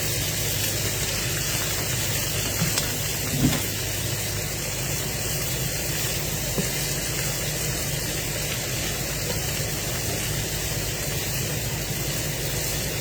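Meat and onions frying in a pan: a steady sizzling hiss over a low hum, with a few light knocks of a utensil, three of them in the first half.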